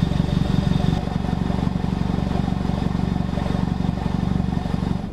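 Audi S3 8V's turbocharged 2.0-litre four-cylinder idling steadily through a Milltek exhaust, dropping slightly in level about a second in.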